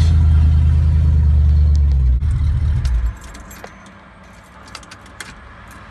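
Truck engine idling, then shut off about three seconds in, the steady hum stopping abruptly. Keys then jingle and click in the ignition, the key being turned to the accessory position.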